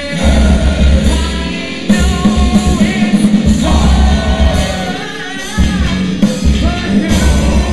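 Live post-hardcore rock band playing, with sung vocals over a heavy, loud low end; the low end drops out briefly about two seconds in and again about five and a half seconds in.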